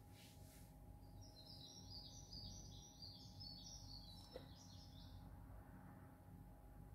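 Faint small-bird twittering: a quick run of short high chirps starting about a second in and stopping about five seconds in, over a steady low hum.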